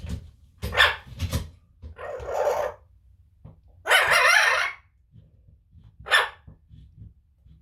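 Pet parrot squawking: a series of harsh calls, with the longest and loudest one about four seconds in.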